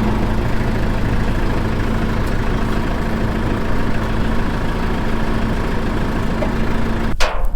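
Tractor engine running steadily, with a steady hum. The sound changes abruptly shortly before the end.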